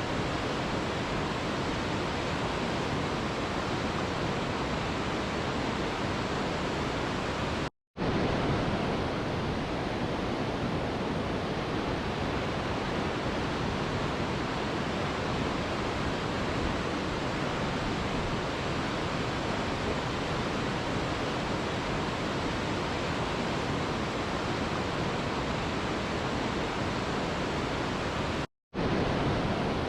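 Mountain river rushing in a steady, even roar of water. The sound cuts out to silence for an instant twice, about eight seconds in and near the end.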